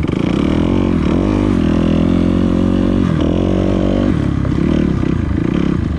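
Dirt bike engine running as it is ridden, its pitch rising and falling several times with the throttle, over a steady low engine drone.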